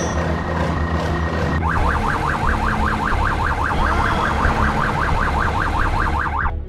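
Police siren on a fast yelp, its pitch sweeping up and down about six times a second, starting about a second and a half in and cutting off near the end, over a low steady hum.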